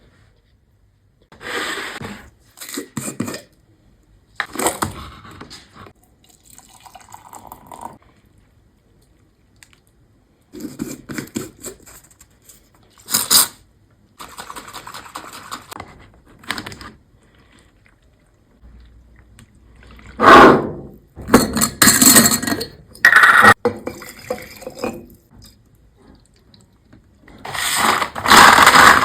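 Drink-making sounds: a series of clinks and knocks of glassware and utensils with liquid being poured, in separate bursts with short pauses, busiest and loudest in the last third.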